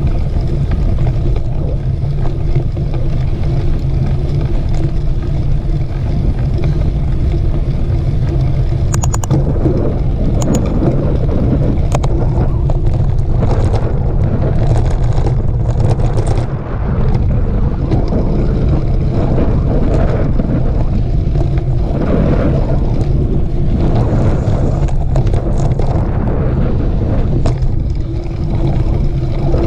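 Wind rushing over the microphone and a steady rumble from riding a mountain bike over a dirt trail, with scattered clicks and rattles.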